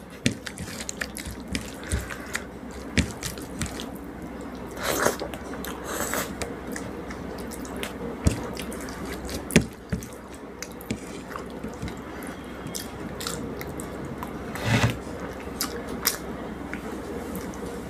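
A person eating rice and fish curry close to the microphone: irregular wet chewing and lip-smacking clicks, with a few longer squelching mouthfuls.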